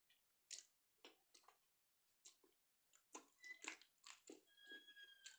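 Faint close-up eating sounds: a man biting into and chewing a boneless piece of aar fish held in his fingers, a string of soft wet mouth smacks and clicks. A faint thin high whistle sounds near the end.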